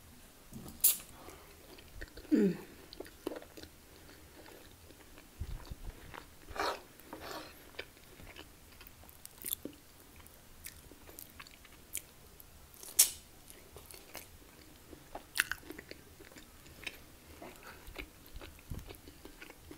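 Close-miked chewing and biting of a roast dinner: a bite of Yorkshire pudding near the start, then chewing pork steak, with scattered sharp clicks through the quiet.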